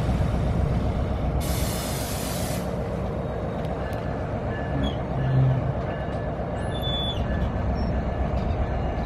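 NJ Transit commuter train idling at a station platform with a steady low rumble. About a second and a half in, its air brakes give one long hiss as they release. From about four seconds in a faint beep repeats roughly twice a second, and the train begins to pull away near the end.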